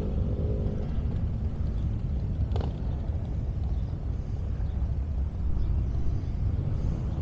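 Steady low vehicle rumble of engines and road noise, with a single brief tick about two and a half seconds in.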